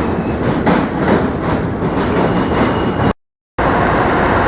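Subway train passing close by on the Manhattan Bridge tracks: a loud, steady rumble with the clickety-clack of wheels over rail joints. The sound cuts out completely for a moment about three seconds in, then the loud roar resumes.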